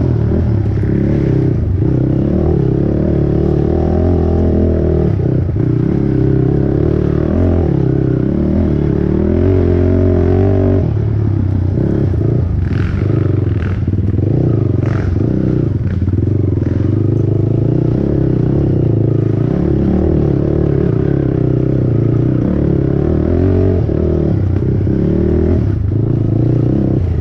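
Honda TRX450R race quad's single-cylinder four-stroke engine at racing throttle, revs rising and falling repeatedly, with a few short clattering knocks partway through.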